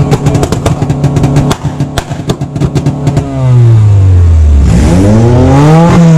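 Car engine held against a two-step launch limiter, running at a steady pitch with rapid popping and crackling. About three seconds in it gets suddenly louder as the car launches, the revs dipping and then climbing as it pulls away hard.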